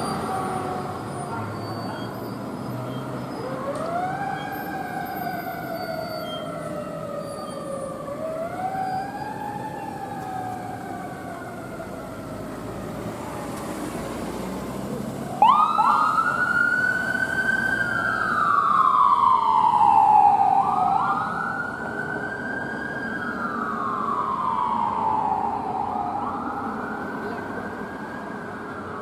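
Fire apparatus sirens wailing, each sweep rising quickly and falling slowly over about four seconds. A louder, higher-pitched wail cuts in suddenly about halfway through, over a low traffic rumble.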